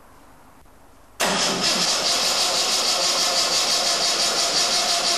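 An old Jaguar's six-cylinder engine on its first start after a rebuild, on choke: it comes in suddenly about a second in and then runs steadily.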